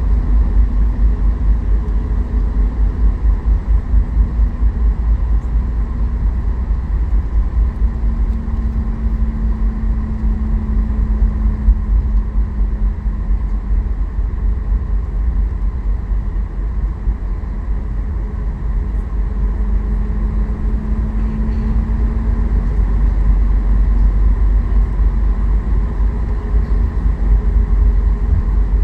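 Cabin noise of a Boeing 737 MAX 8 taxiing: its CFM LEAP-1B engines running at idle with a steady hum over a heavy low rumble.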